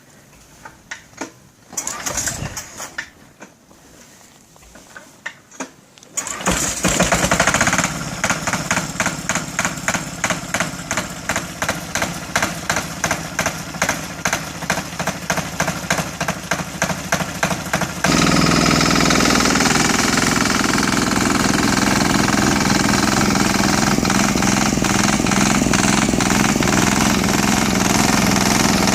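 Pull-started diesel snowblower engine on a cold start: after a few faint knocks it catches about six seconds in and chugs slowly, two or three beats a second. About two-thirds of the way through it speeds up to a steady, louder run.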